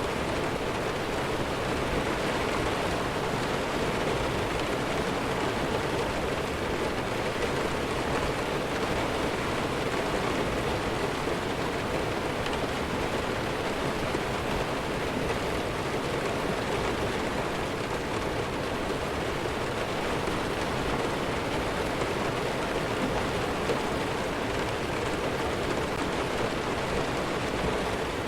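Steady rainfall, an even hiss that holds the same level throughout with no thunder or single drops standing out.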